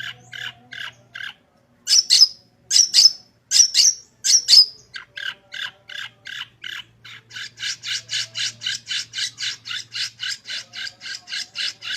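Long-tailed shrike (cendet) singing: a few loud, harsh squawking calls a couple of seconds in, then a long, fast run of repeated chattering notes, about four or five a second.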